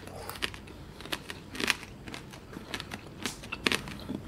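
Close-miked chewing of candied black grapes (tanghulu): the hardened sugar shell crunching in sharp, irregular cracks, about two a second.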